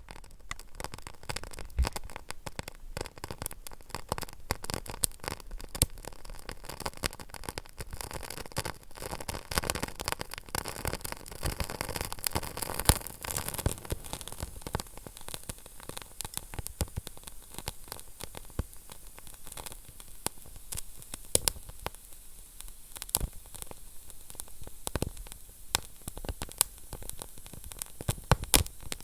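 Wood fire burning in a fireplace: a steady hiss with frequent irregular crackles and sharp pops of burning logs.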